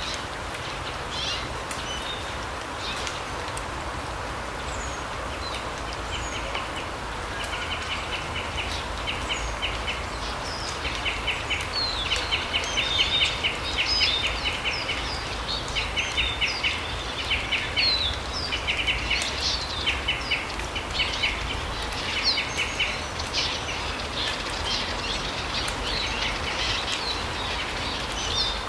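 Small forest birds calling: bursts of fast chattering trills and scattered high chirps, busiest in the middle stretch, over a steady even rushing background.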